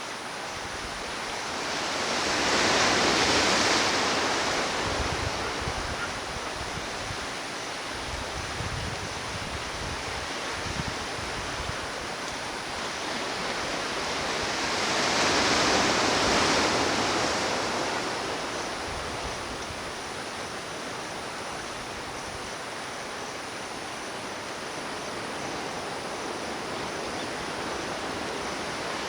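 Ocean surf on a beach: a steady wash of water with waves breaking and surging twice, about three and sixteen seconds in, and another wave building at the end.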